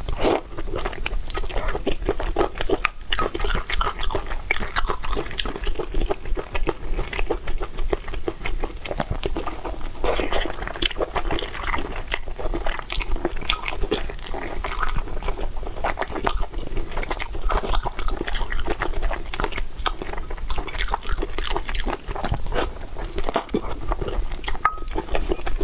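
Close-miked chewing and biting of someone eating, a steady stream of quick wet smacks and crunches.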